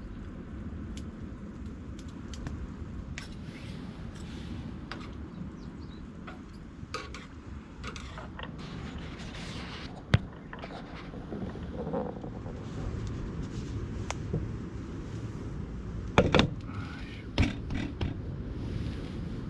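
Scattered clicks and knocks over a steady low rumble, the loudest a single sharp click about halfway through and two knocks near the end.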